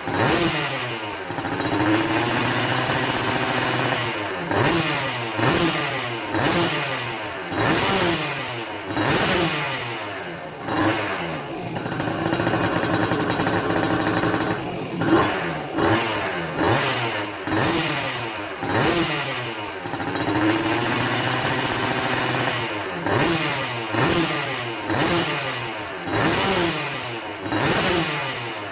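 Yamaha F1ZR's two-stroke single-cylinder engine being revved through a racing under-belly expansion-chamber exhaust. It gives repeated throttle blips whose revs fall away, about one a second, with three longer held revs.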